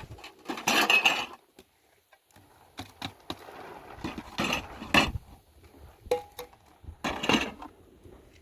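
Intermittent clattering knocks and clinks in four short bouts, like objects being handled and set down.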